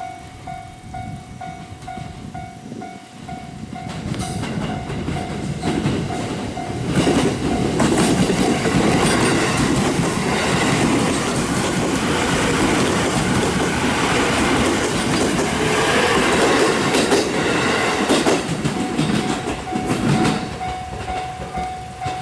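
A Japanese level-crossing warning bell rings in a steady repeating pattern as a limited express train approaches. The train then passes over the crossing at speed, its wheels clattering over the rail joints for about thirteen seconds and drowning out the bell. The bell is heard again near the end as the train recedes.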